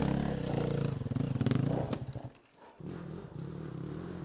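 Enduro dirt bike engine revving with shifting pitch, cutting out briefly about two and a half seconds in, then running more steadily and quietly.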